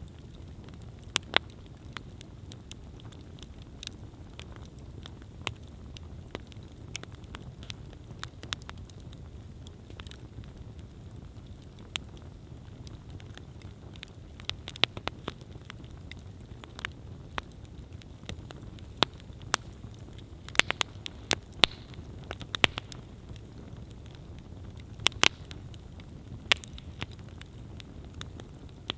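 Wood campfire burning with a steady low rumble of flames and irregular sharp crackles and pops, which come more often in the second half.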